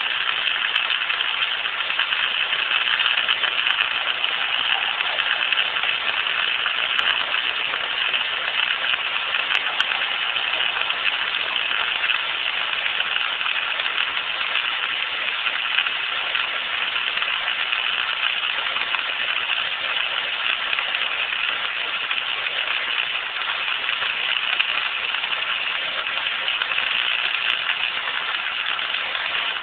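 Wire-feed welding arc, flux-cored wire, crackling and sizzling steadily without a break as a continuous bead is laid.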